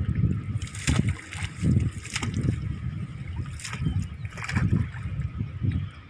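River water sloshing and splashing, with four sharper splashes.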